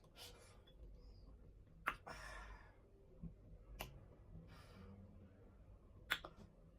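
Eating sounds close to the microphone: a few sharp mouth smacks about two seconds apart, with soft breaths between them.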